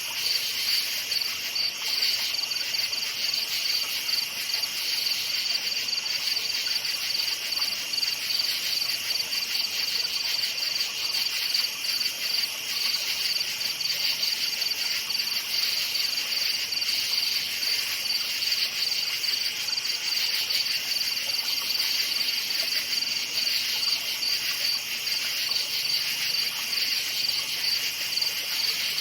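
Crickets chirping at night in a continuous, high-pitched, rapidly pulsing chorus that holds steady throughout.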